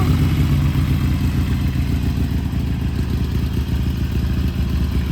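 Motorcycle engine idling steadily just after being started, with an even low-pitched running note.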